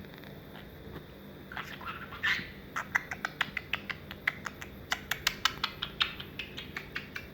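Budgerigar giving a short chirp, then a long run of sharp clicks, several a second.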